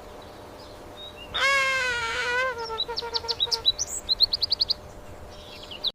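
A bird calling: one long wavering call about a second and a half in, then a run of short high chirps ending in six quick evenly spaced notes.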